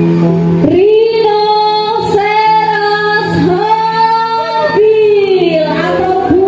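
A woman singing a song over backing music, holding long sustained notes.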